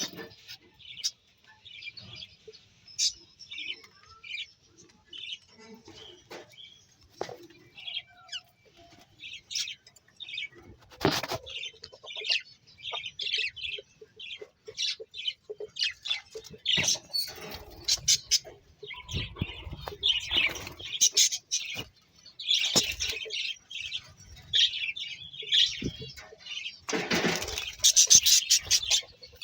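Small birds chirping busily: many short, high chirps overlap and come thick throughout. A few louder bursts of noise break in, the loudest near the end.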